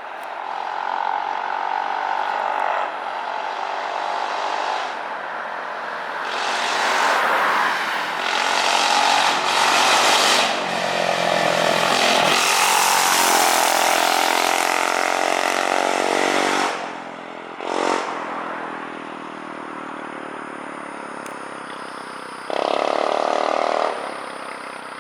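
Straight-piped 2009 Yamaha Majesty 400 scooter's single-cylinder engine accelerating past on a flyby, so loud. It builds to a peak in the middle, its pitch sliding as it passes, then drops off sharply into a quieter engine drone.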